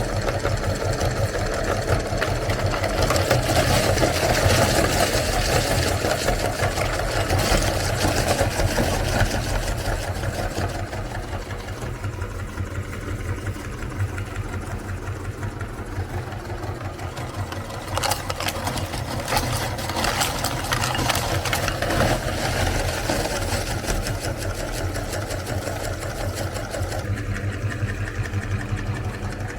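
Electric meat grinder running steadily as it grinds cookies: a constant motor hum under a dense crunching crackle that swells and fades as the load changes.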